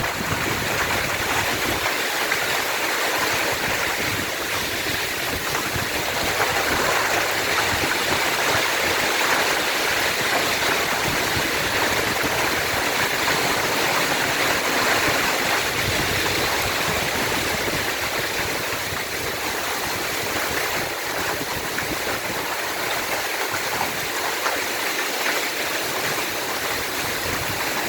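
Heavy rain and hail pouring down in a storm: a steady, dense hiss with no single hits standing out.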